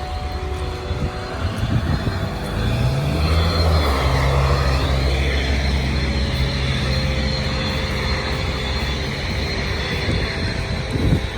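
A low engine hum over a steady rushing noise. The hum comes in about two and a half seconds in, rises briefly, holds steady and fades out at about nine seconds.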